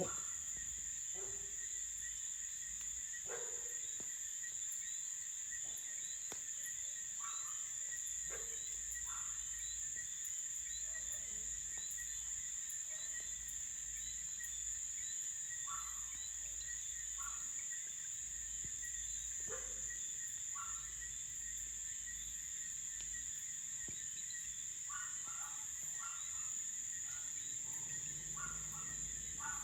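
Night insect chorus: crickets trilling in a steady, continuous high-pitched drone, with scattered short calls from other animals dotted through it.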